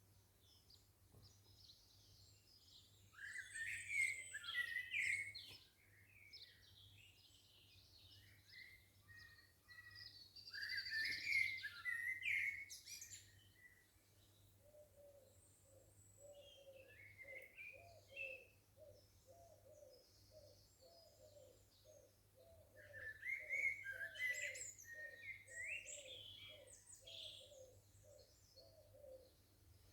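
Garden songbirds singing in three bursts of quick, high warbling phrases, each a few seconds long. Through the second half, a lower short note repeats about twice a second.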